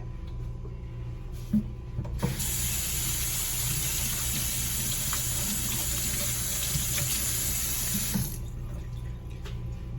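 Kitchen tap running into a sink for about six seconds, turned on about two seconds in and off about eight seconds in, over a steady low hum, with a couple of small knocks before the water starts.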